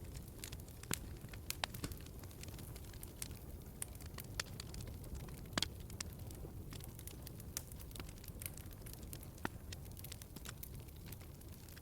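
Wood fire crackling in a fireplace: sharp pops scattered irregularly over a low, steady rumble, the loudest pop about five and a half seconds in.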